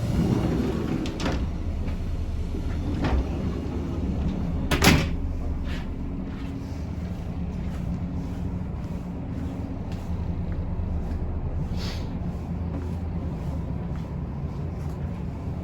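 Steady low rumble inside a diesel railcar, with several sharp knocks and rattles from the carriage; the loudest knock comes about five seconds in.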